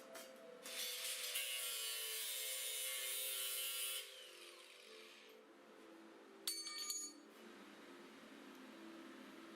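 Background music, with a loud steady hissing tool noise for about three seconds near the start, then a brief clatter with a metallic ring about six and a half seconds in.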